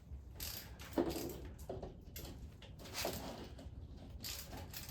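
Hand tools and engine parts being handled on a workbench: a sharp knock about a second in and another around three seconds, with scraping and light clicks between.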